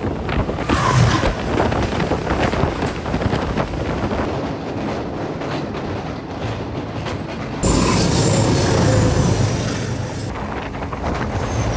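Passenger train running along the track, heard from a moving carriage: a steady rumble and rattle of wheels on rail. The sound turns suddenly louder and brighter about eight seconds in and drops back a couple of seconds later.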